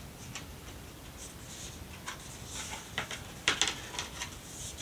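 A page of a picture book being turned by hand: soft paper rustling and light taps, with a quick cluster of clicks about three and a half seconds in.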